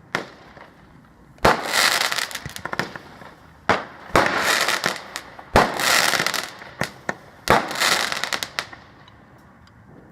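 Fireworks going off: about five sharp bangs, each followed by a second or so of crackling, with the last burst dying away near the end.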